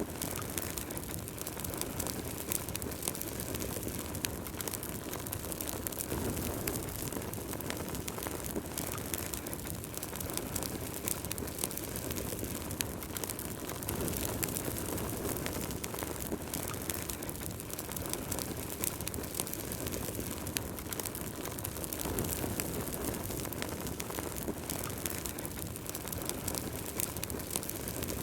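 Wood fire crackling in a fireplace: many irregular sharp pops and snaps over a steady low rumble of the burning logs.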